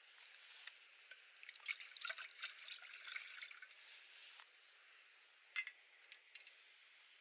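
Water trickling and dribbling, with a run of small clicks and splashes between about one and a half and three and a half seconds in, and one sharp click later.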